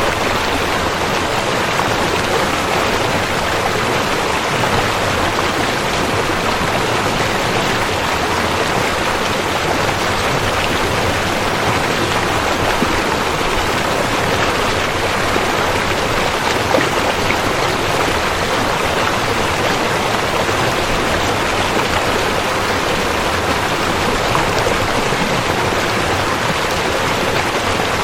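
River water flowing: a steady, even rushing with no let-up.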